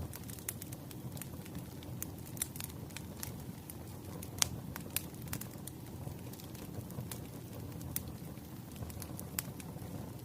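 Wood fire burning: a steady low rumble of flames with irregular crackles and pops from the burning logs, one sharp snap standing out about four and a half seconds in.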